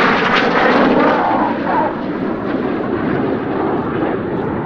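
Red Arrows BAE Hawk T1 jets flying past, their jet engines making a loud, steady rush of noise that eases a little about two seconds in.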